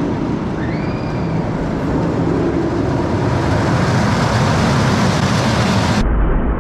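Family roller coaster train running along its track, a steady low rumble under wind rushing over the microphone. The sound turns muffled for a moment about six seconds in.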